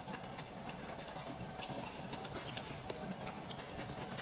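Close-miked chewing of a fried snack in sauce: wet mouth sounds with many small clicks and crackles.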